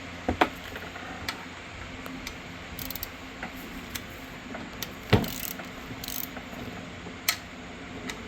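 Ratchet wrench clicking in short bursts and metal tools clanking as the 13 mm alternator mounting bolts are loosened, with a few sharp knocks, the loudest about five seconds in.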